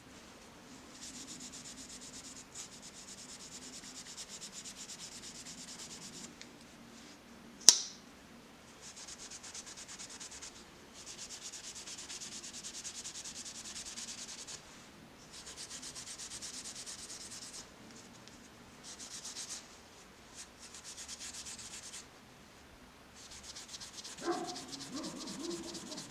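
Fine abrasive being rubbed by hand over a pocketknife's brass and steel back springs to polish them: several stretches of rapid scrubbing strokes with short pauses between. There is one sharp click about eight seconds in.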